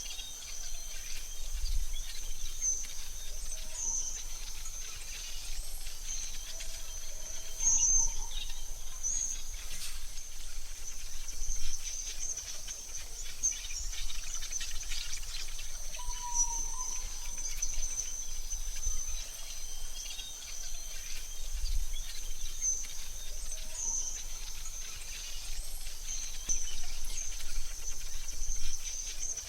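AI-generated forest ambience: a steady high-pitched insect trill throughout, scattered short bird chirps, and a low rumble underneath.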